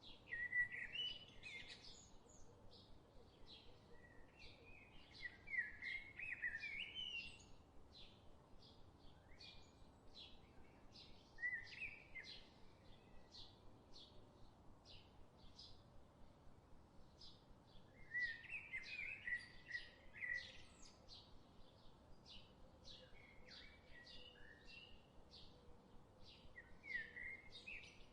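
Songbird singing short warbled phrases every few seconds, faint, over a steady series of thin high chirps about twice a second.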